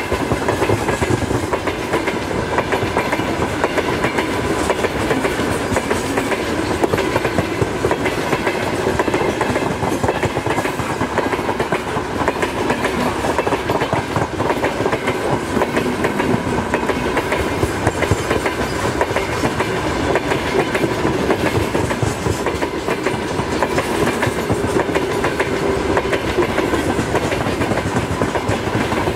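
Freight train of open gondola wagons rolling past close by: a steady rumble with rapid clacking of wheels over rail joints and a faint steady ringing from the wheels on the rails.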